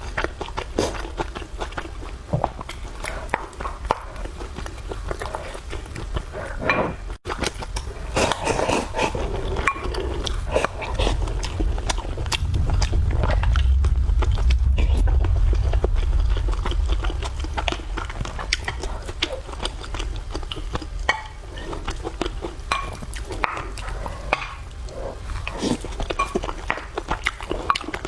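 Close-miked eating sounds: a person chewing and biting food, with many small irregular wet mouth clicks. A low rumble swells for a few seconds in the middle.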